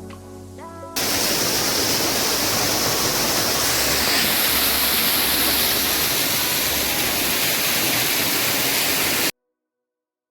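Background music ends about a second in and gives way to the steady, loud rush of a waterfall, which cuts off abruptly near the end.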